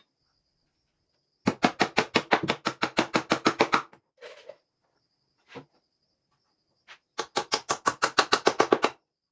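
Two quick runs of sharp knocks, about eight a second, each lasting two to three seconds, with a pause between.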